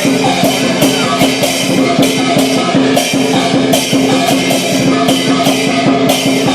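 Chinese lion dance percussion: a big drum beaten in rapid strokes, with clashing cymbals crashing on a steady beat about twice a second.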